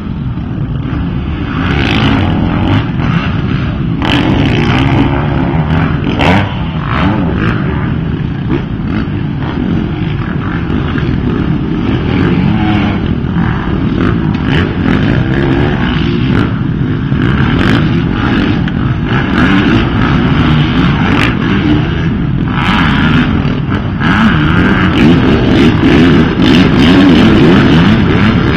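Several dirt bike engines running and revving as they race, with short sharp cracks now and then; the sound swells louder near the end.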